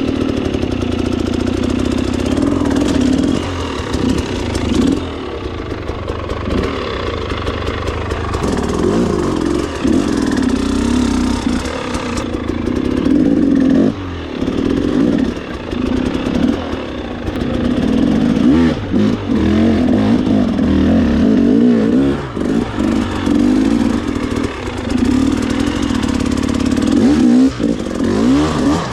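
Trail motorcycle engine under way off-road, revving up and down with the throttle, its pitch rising and falling many times with short dips between pulls.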